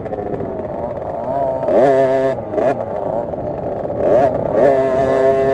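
50cc two-stroke motocross minibike engine revving hard, its pitch sweeping up and down twice, then holding a steady high pitch near the end.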